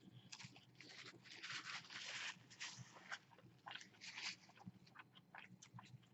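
A person chewing a mouthful of food close to the microphone: faint crunching and small wet mouth clicks, loudest about one and a half to two and a half seconds in.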